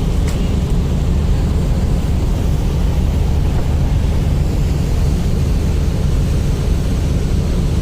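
Steady low rumble of ship diesel engines running continuously, with no change in level.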